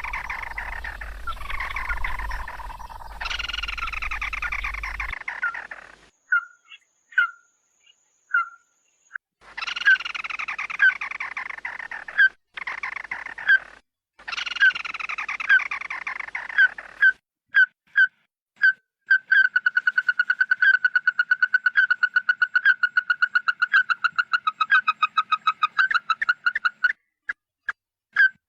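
Recorded calls of the bird sold as the "red-eyed bird" lure call. It gives rapid descending phrases, then spaced single notes, then a long, fast, even trill of repeated notes near the end.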